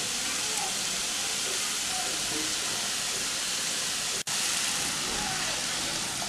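Pumpkin and potato pieces sizzling in oil in a wok: a steady frying hiss that cuts out for an instant about four seconds in.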